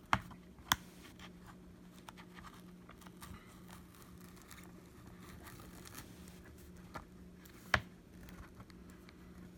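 Pry tool working under the cracked front glass of a first-generation iPad mini: faint scraping and crackling of broken glass and adhesive, with a few sharp clicks and snaps. The loudest snap comes about three quarters of the way in.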